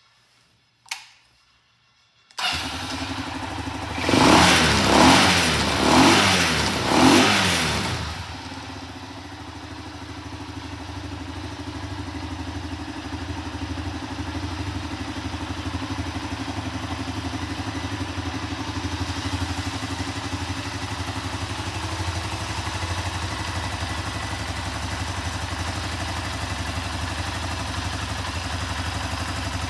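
Honda FTR223's air-cooled 223 cc single-cylinder engine. After a single sharp click about a second in, it starts, is blipped four times in quick succession, then settles into a steady idle.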